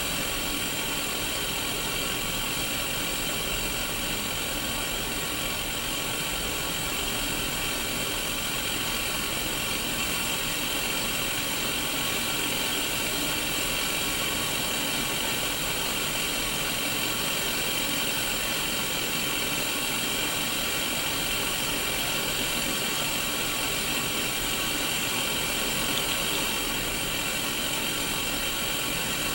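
Steady static hiss from a Sony Mega Watchman black-and-white mini CRT TV tuned to no station, even and unchanging.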